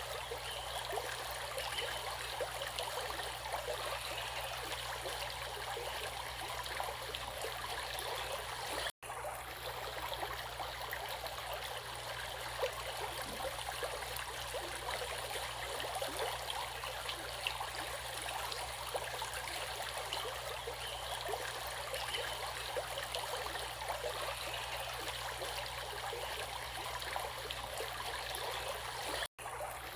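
Running water from a stream, a steady even rush with small trickling splashes. The sound cuts out for an instant twice, about nine seconds in and near the end.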